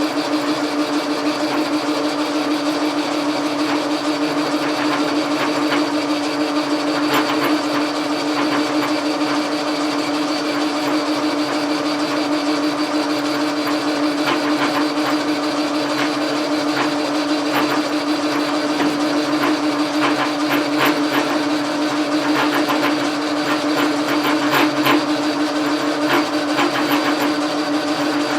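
Logan lathe running with a steady hum, with scattered clicks and scratchy noises over it that come more often in the second half.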